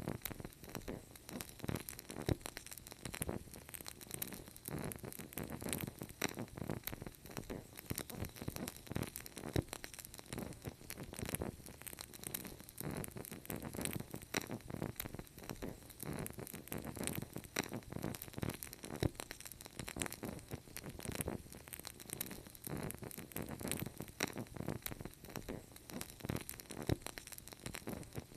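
Wood fire crackling steadily: dense irregular pops and snaps over a low, soft rumble of burning logs.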